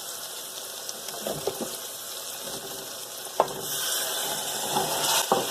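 A pan of onion-tomato masala sizzling as cauliflower florets are added, with a few sharp knocks against the pan; the sizzle gets louder about two-thirds of the way through.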